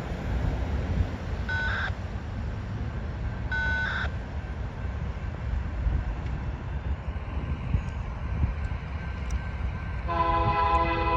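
Freight train rumbling past, with two short high tones early on. About ten seconds in, the lead locomotive's multi-chime air horn sounds a held chord.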